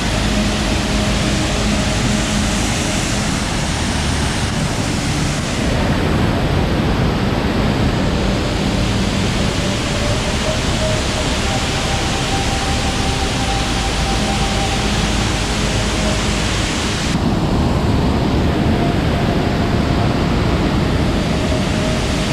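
Loud, steady rush of a waterfall running high after heavy rain. Its tone shifts abruptly twice, about five seconds in and again about seventeen seconds in.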